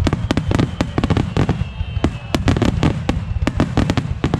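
Aerial fireworks going off in quick succession: a dense run of sharp bangs and crackles, several a second, over a continuous low rumble.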